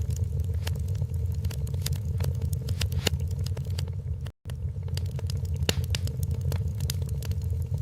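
Wood fire in a fireplace crackling, with frequent sharp pops and snaps over a steady low rumble. The sound cuts out completely for a split second a little past halfway.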